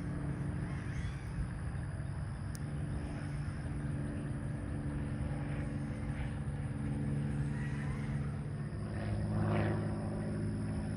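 Electric motor and propeller of a Bird of Time RC glider in flight, droning steadily at just over half throttle as it climbs, growing a little louder about nine seconds in.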